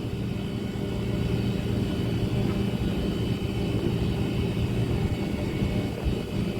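Passenger ferry's engines humming steadily, a low drone with a faint high whine above it.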